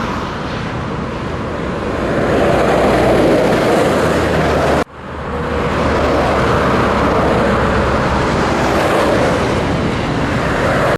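Scania truck driving, its engine running steadily under road and tyre noise. The sound breaks off abruptly about five seconds in and swells back within a second.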